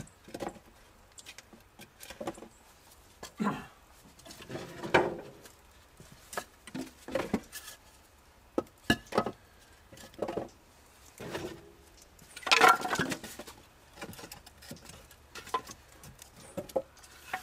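Large chunks of pine, fir and maple firewood being stacked in a masonry bread oven: irregular wooden knocks and clunks, with a louder, longer scraping clatter about three-quarters of the way through.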